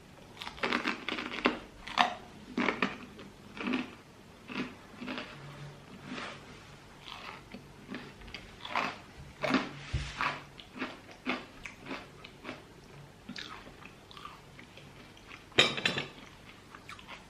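A person eating close to the microphone: irregular bites and chewing with crunchy sounds, and a louder one near the end.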